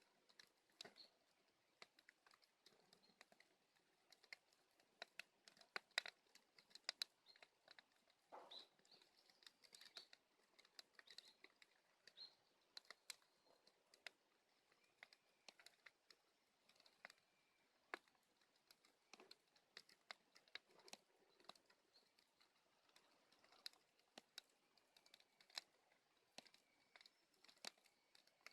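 Bonfire of dead branches crackling faintly, with irregular sharp snaps and pops.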